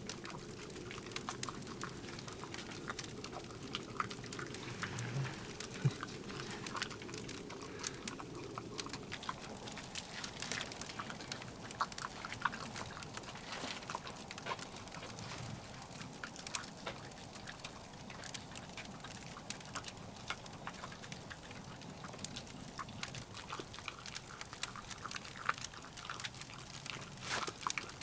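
Firewood crackling in a wood stove: a steady scatter of irregular sharp pops and ticks.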